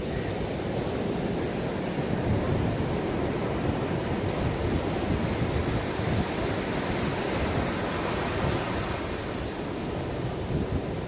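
Sea waves washing onto a sandy shore: a steady rushing surf with no single crash standing out, swelling slightly and easing off.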